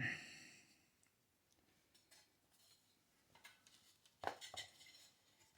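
Near silence with a few faint metallic clicks and clinks, the loudest pair about four seconds in, as metal parts are handled.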